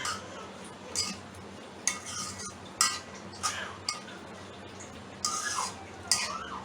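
A utensil stirring a vegetable and spice filling in a pot, clinking and scraping against its sides every second or so, with a longer scrape near the end.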